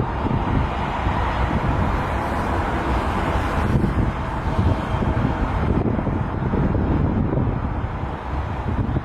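Canadian National train rolling past, a steady heavy rumble with wind buffeting the microphone.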